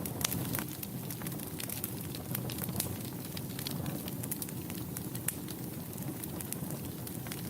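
Wood fire burning in a fireplace: a steady low hiss and rumble of the flames with frequent small, sharp crackles and pops scattered irregularly throughout.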